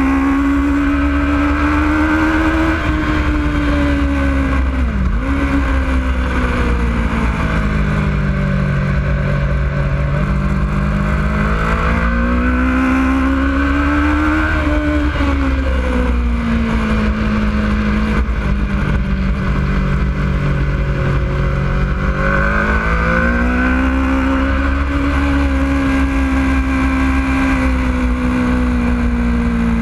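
Yamaha YZF-R1 inline-four sport bike engine running on track, its pitch falling and rising over several seconds at a time as the bike slows into and drives out of corners, with a brief sharp dip about five seconds in. A steady low wind rumble on the microphone runs underneath.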